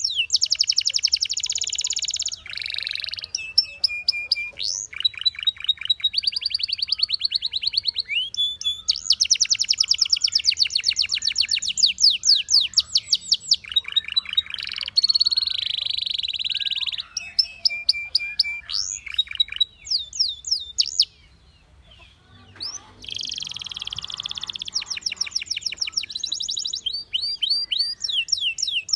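A canary singing a long run of rapid trills and rolls, with fast repeated notes and short held whistles, and a brief pause about three-quarters of the way through.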